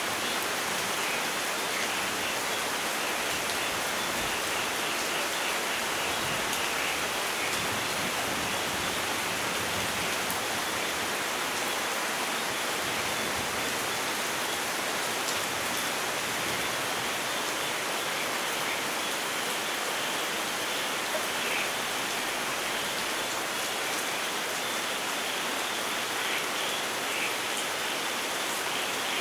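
Steady rainfall in a rainforest, an even hiss of rain on foliage and ground that holds the same level throughout.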